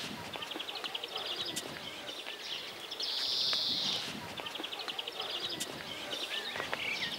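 A songbird repeating one song phrase about every four seconds: a quick run of high ticks that leads into a dry, buzzing jangle about a second long. Other birds call faintly underneath.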